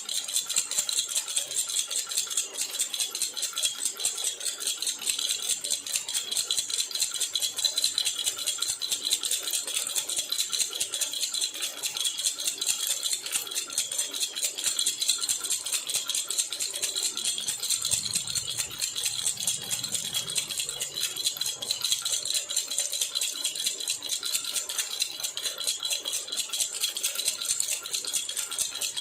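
Silver jhunjhuna baby rattle shaken rapidly and without pause: a continuous, high-pitched metallic rattling.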